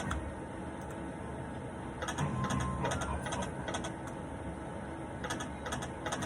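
Poker machine game sounds: a run of quick clicking ticks, with a louder stretch about two seconds in.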